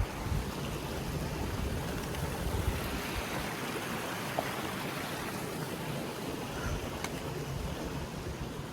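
Steady rush of river water flowing over rocks at a trail river crossing.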